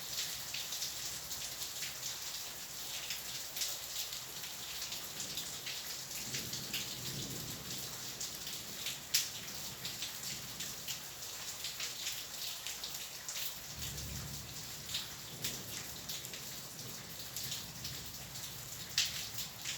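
Steady rain falling, with many sharp individual drop hits. Two low rumbles of thunder come through, about six and fourteen seconds in.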